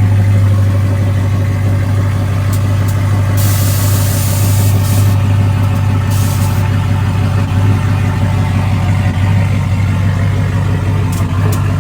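2015 Chevy pickup truck's engine idling steadily with a deep, even exhaust drone. Two short hisses come about three and a half and six seconds in.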